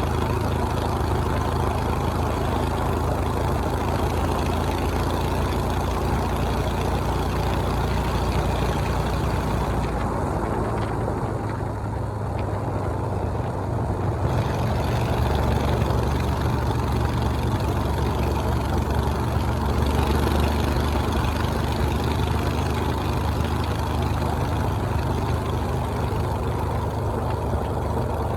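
Motorcycle engine running steadily while riding. It eases off for a few seconds near the middle, then picks up again.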